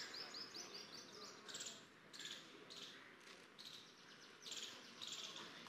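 Faint high chirping of small birds: a quick run of falling notes at the start, then short chirps about every half second, over low background noise.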